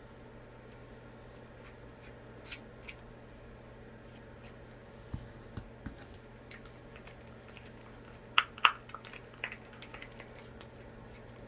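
Scattered small clicks and taps of things being handled, over a steady low hum, with two louder sharp knocks close together about eight and a half seconds in.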